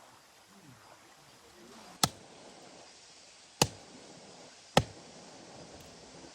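Three sharp chopping strikes, a blade biting into wood, about a second and a half apart, over a steady hiss of rain.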